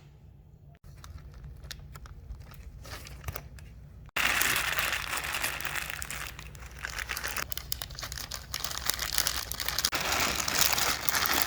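Crinkling and crumpling, soft at first and much louder from about four seconds in.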